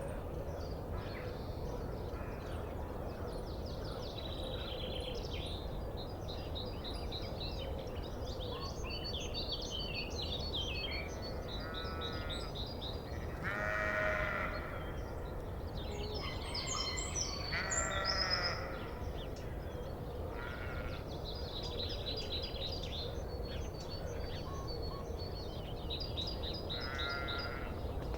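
Sheep bleating, about five separate calls spread over the stretch, with one of the strongest about halfway through.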